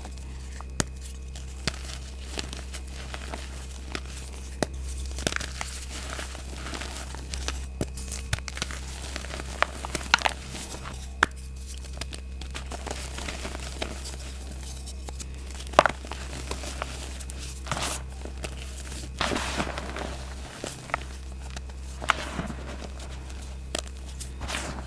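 Reformed gym chalk being crushed by hand, crunching and crumbling with scattered sharp snaps and a few longer crunches. The pieces have mixed textures, some of the chalk reformed long ago.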